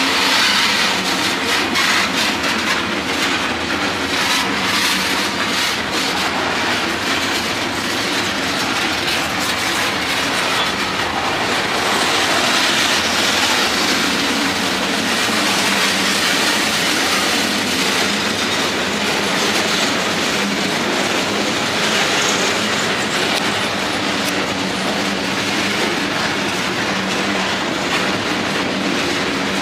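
Freight cars of a long manifest train (covered hoppers, coil cars and tank cars) rolling past. Their steel wheels rumble on the rail and click over the rail joints, with the clicking densest in the first few seconds.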